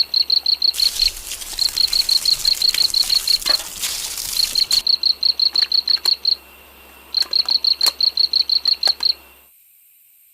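High-pitched chirping repeated quickly, about six chirps a second, in runs of roughly two seconds with short pauses between, over a faint hiss and low hum; it all cuts off abruptly about nine seconds in.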